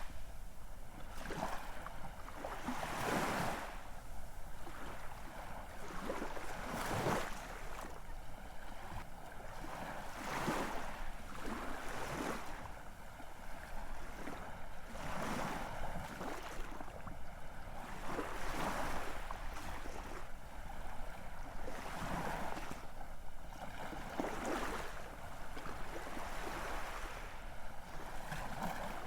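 Ocean surf: waves breaking and washing ashore in repeated surges every few seconds, over a steady hiss of water.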